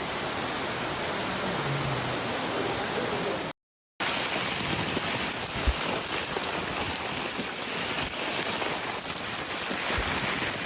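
Heavy rain coming down hard, a steady dense hiss; it cuts out completely for about half a second a little past three seconds in, then the same downpour resumes.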